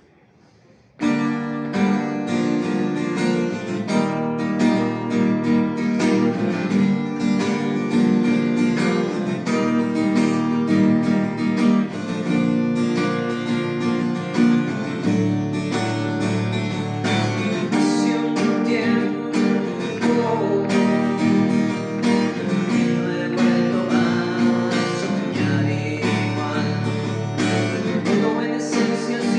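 Acoustic guitar music, strummed and plucked, starting about a second in.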